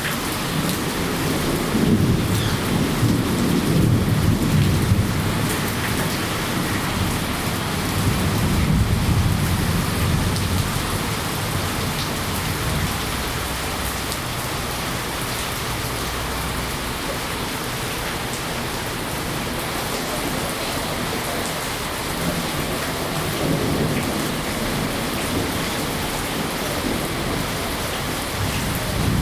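Steady rain with rolling thunder: low rumbles swell a second or two in, again around eight to eleven seconds in, and once more near the end.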